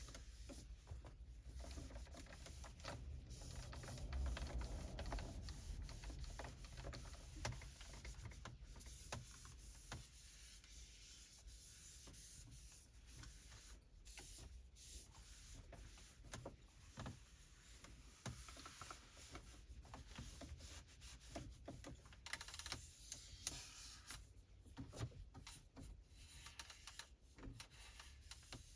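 Microfiber cloth wiping and rubbing over car interior surfaces: a faint, continuous scratchy rubbing with many small clicks and taps.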